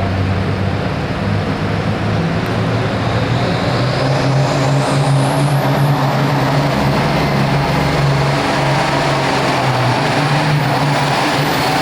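Turbocharged diesel engine of a hot farm pulling tractor running hard. About four seconds in its pitch rises and a high turbocharger whistle climbs steeply.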